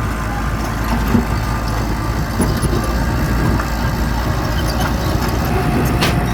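Diesel engine of heavy earthmoving machinery running steadily, with a few short clicks, the clearest near the end.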